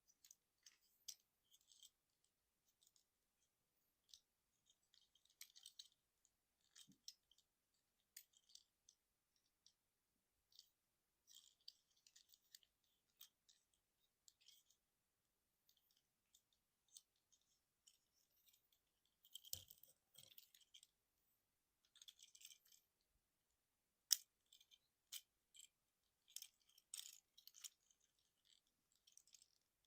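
Plastic parts of a Transformers Generations Trailcutter action figure clicking and rattling as they are moved and snapped into place during transformation. The clicks come singly and in small clusters, with one sharp snap a little past the middle and denser clicking near the end.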